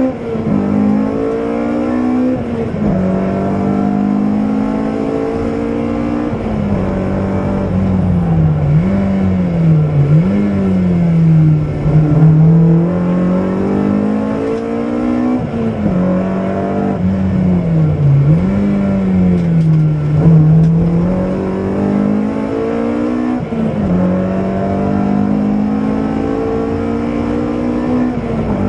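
BMW M3 rally car engine at stage pace, heard from inside the cabin: the revs climb and fall repeatedly, with sudden pitch jumps at gear changes.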